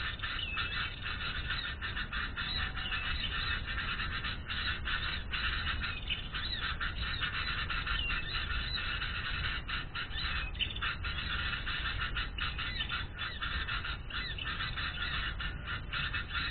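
Birds chirping and twittering densely and without a break, over a low rumble.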